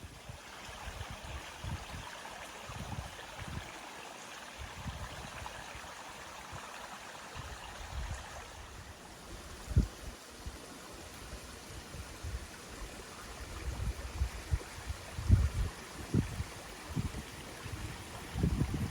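Steady rushing of a stream, with scattered low thumps on the microphone that grow more frequent in the second half.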